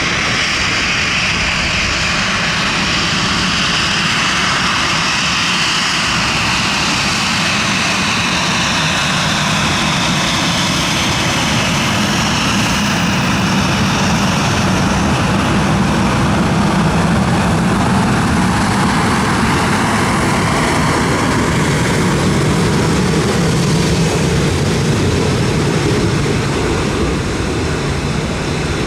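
Boeing 737-76N's CFM56-7B jet engines at takeoff power, a loud steady rush with a high whine that slides down in pitch as the airliner passes. The sound swells a little midway and eases off near the end.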